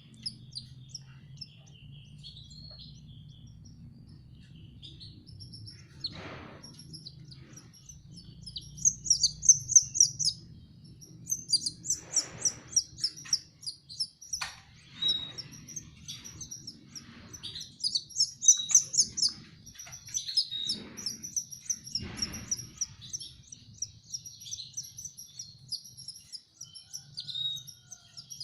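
Canary chicks begging: rapid runs of short, high-pitched cheeps, rising into louder flurries at intervals while they are hand-fed.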